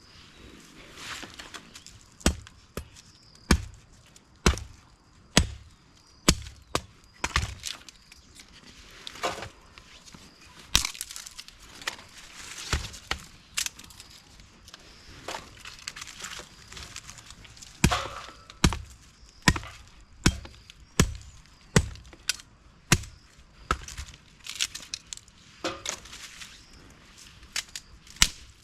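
Wood being chopped: a long series of sharp strikes, roughly one a second, with a few short pauses and varying force.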